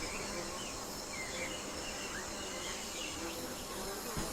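Rainforest ambience: a steady high insect drone with scattered short bird calls.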